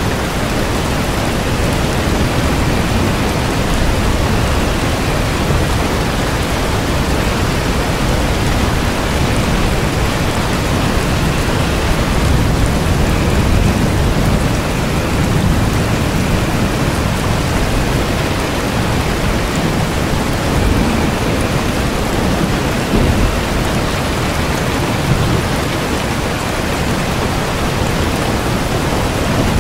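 Steady rain, an even dense hiss with a deep rumble underneath.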